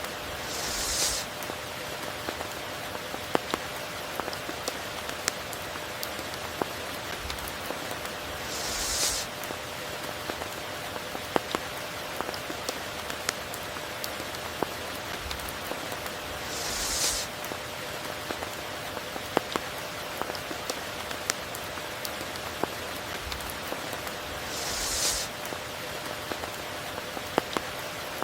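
Steady tropical rain falling, with many sharp individual drops striking close by. A brief hissing swell comes about every eight seconds, four times in all.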